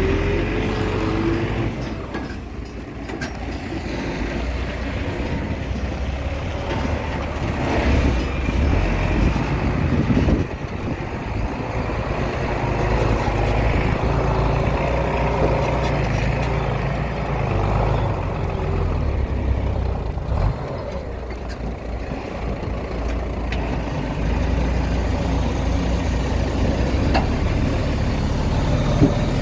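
Diesel earthmoving machinery running steadily, engine speed swelling and easing under changing load, with a few knocks.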